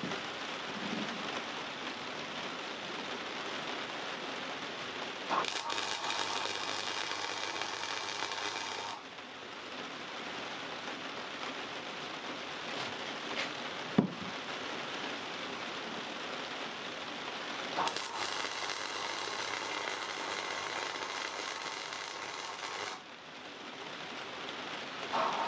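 Arc welding on steel rebar: two welds, the first about three and a half seconds long starting about five seconds in, the second about five seconds long starting near eighteen seconds, each an even crackling hiss over a low hum, with a steady background hiss between them. A single sharp knock about fourteen seconds in.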